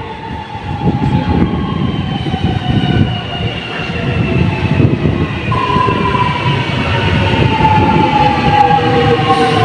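Alstom electric train's traction motors whining, several tones falling slowly in pitch as the train slows, over the rumble of the wheels on the rails.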